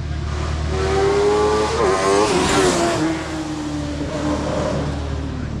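Hillclimb race car passing close by under power, its engine note climbing, then dropping in pitch as it goes past, loudest about two to three seconds in.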